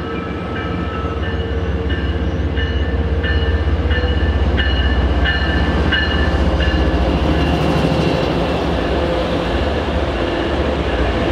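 A train running past on the station tracks: a heavy low rumble that swells in about a second in and stays loud, with a high ringing tone repeating roughly every two-thirds of a second for the first several seconds.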